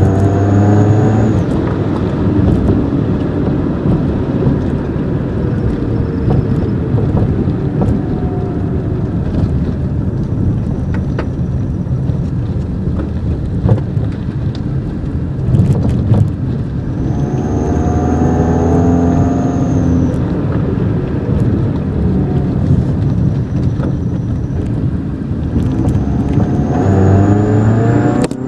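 Toyota Corolla engine and exhaust under way, pulling up in pitch through three accelerations: at the start, about two-thirds of the way through, and near the end. With each pull a thin high whistle rides over the engine, the sound of an exhaust-tip turbo whistler; between the pulls the engine and road noise hold steadier.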